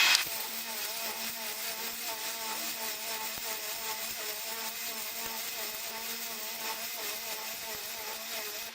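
Skid steer engine and hydraulics running the trommel-style dirt sifter, whose drum is turned by a hydraulic wheel motor: a steady hum under a whine that wavers up and down in a regular rhythm. A brief rush of noise sounds right at the start.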